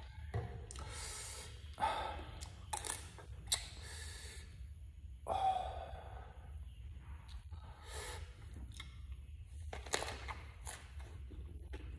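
Close-miked eating: a person chewing and crunching food, with sharp bite clicks and mouth noises scattered through, and a brief gasping vocal sound about five seconds in.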